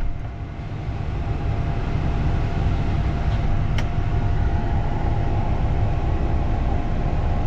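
Isuzu NPS 4x4 truck's diesel engine running with a steady low rumble and a faint steady whine, with a single sharp click about four seconds in.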